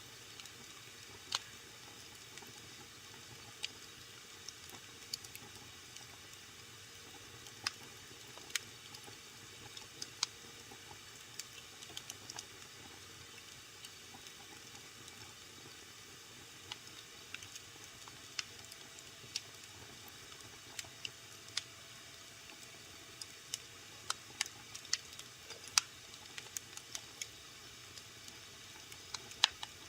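Wood fire in a fireplace crackling, with irregular sharp pops over a faint steady hiss, the pops coming more thickly near the end.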